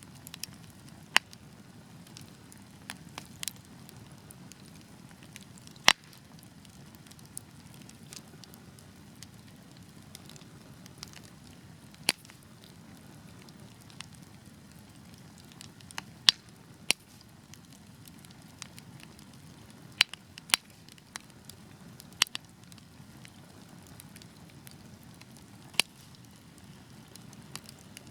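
Wood fire burning with a steady low rush of flame and sharp, irregular pops and crackles from the burning logs.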